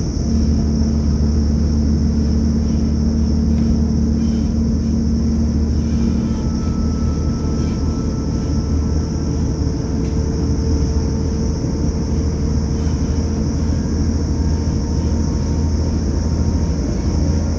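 Underfloor Cummins QSK19 diesel engine of a Class 180 Adelante diesel multiple unit, heard from inside the carriage directly above it, running steadily under power with a deep drone. Its note shifts and settles at the very start.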